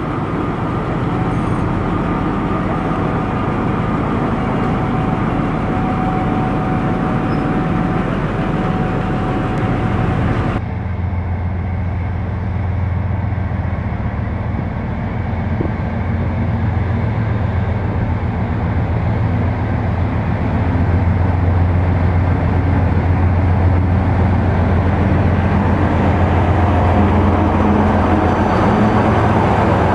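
A train running with a steady low mechanical hum. About ten seconds in the sound changes abruptly, as at a cut to another recording, to a deeper, stronger hum that grows louder about twenty seconds in.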